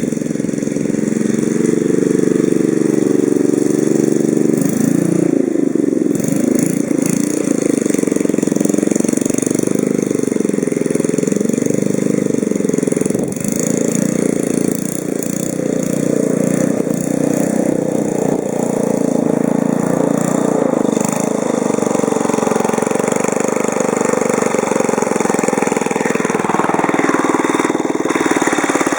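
Small Briggs & Stratton engine of a lawnmower running, its speed wavering up and down at times.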